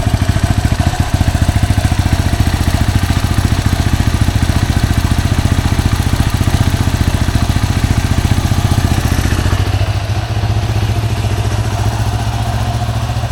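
2008 Yamaha WR250R's single-cylinder four-stroke engine idling steadily with a fast even pulse, warming up so the oil thins before it is drained. It gets a little quieter for the last few seconds.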